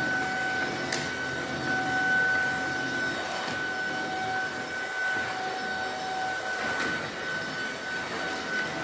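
Tineco A10 cordless stick vacuum running steadily with a high motor whine over a rushing hiss, with a few brief clicks as it picks up cracker crumbs.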